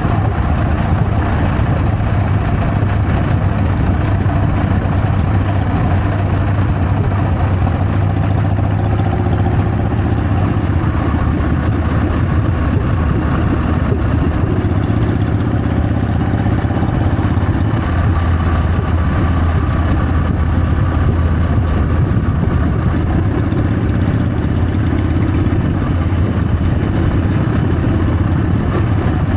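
Harley-Davidson Sportster's V-twin engine running steadily, its pitch shifting slightly now and then.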